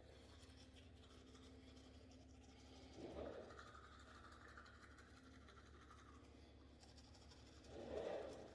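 Near silence: faint room tone with a low hum, and two brief soft rustling sounds, one about three seconds in and one near the end.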